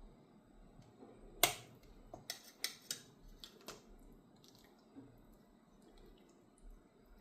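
A few sharp clinks of spoons and chopsticks against bowls while eating: one loudest clink about one and a half seconds in, then a quick run of smaller ones over the next two seconds.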